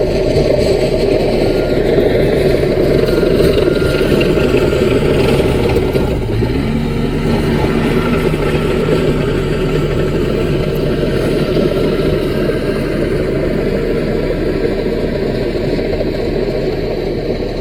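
Diesel engine of a CAT mini bulldozer running steadily under work. A second, steadier engine tone shows for a couple of seconds near the middle.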